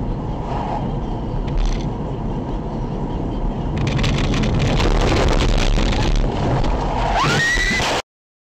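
Car road noise picked up by a dashcam. About four seconds in, a louder crackling, clattering noise full of sharp clicks takes over. Near the end a squeal rises in pitch and holds, then the sound cuts off abruptly.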